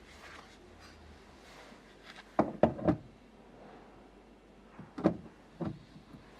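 Sharp knocks and clunks of hard parts being handled and fitted at a car's steering column: three in quick succession about two and a half seconds in, then two more near the end.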